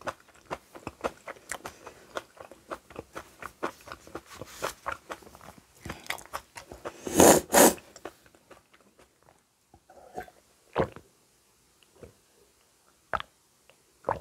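Chewing and crunching kimchi: a quick run of crisp crunches, with two louder noisy bursts about halfway through. After that the chewing thins out to a few scattered soft clicks.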